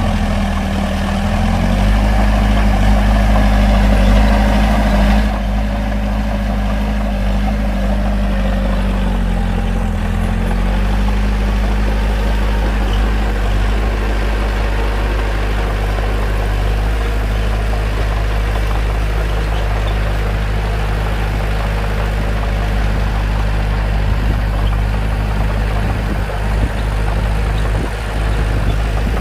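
Bulldozer's diesel engine running under load while it works soil. It is louder for about the first five seconds, then drops suddenly, and its pitch dips briefly and recovers about ten seconds in.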